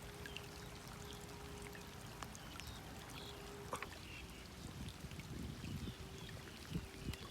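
Rainwater pouring and trickling steadily, with scattered drops ticking.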